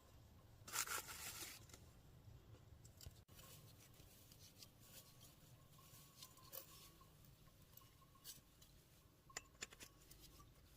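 Near silence with faint scattered clicks, and a brief rustling scrape about a second in.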